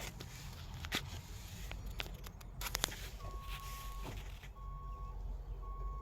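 A few sharp clicks and knocks, then a vehicle's backup alarm starts about three seconds in: a steady single-pitched beep repeating about once a second, three beeps, over a low engine rumble.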